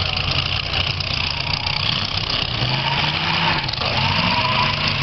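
Demolition derby car engines running and revving as the cars push and spin in the arena, the pitch rising and falling a couple of times in the middle, over a steady noisy background.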